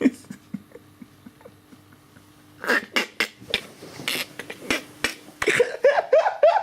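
A person laughing: first a few short breathy bursts of held-back laughter, then a rhythmic run of 'ha-ha' laughter in the last second or so.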